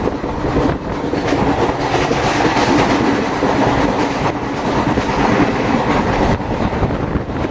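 A moving train running along the track: a steady loud rumble with rattling and irregular clacks from the wheels and carriage.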